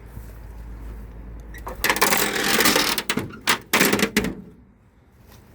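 Metal scraping and clattering for about a second, followed by a few short clanks, as old truck parts are handled.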